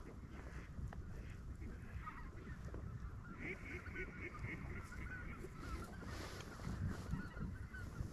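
A flock of wild geese calling, many short honks overlapping throughout, with a quick run of repeated notes about halfway through.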